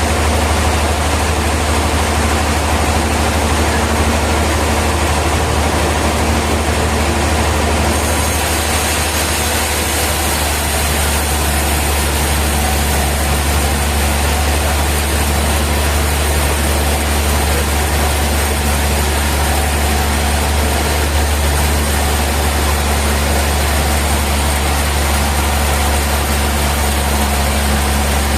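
Sawmill machinery running steadily, a loud low drone with a broad whir over it that hardly changes. About eight seconds in, the hiss gets a little brighter.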